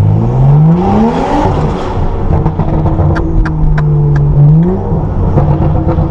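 Tuned BMW M135i's turbocharged straight-six with a straight-pipe exhaust, accelerating. The revs climb for about a second and a half, hold, then climb again past the middle, with a scatter of sharp cracks.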